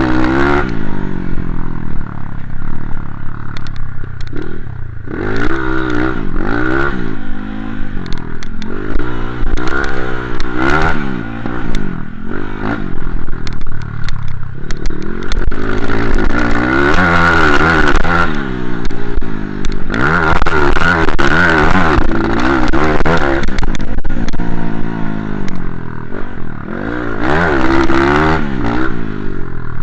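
Motocross dirt bike engine revving hard, over and over: the pitch climbs and falls back every second or two as the throttle opens and the gears change.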